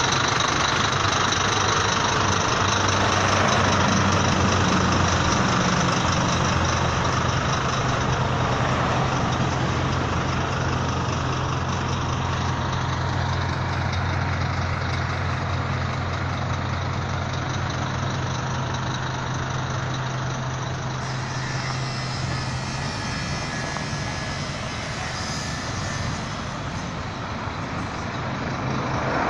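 Truck engine running steadily at idle, a low even hum whose tone drops away about two-thirds of the way through.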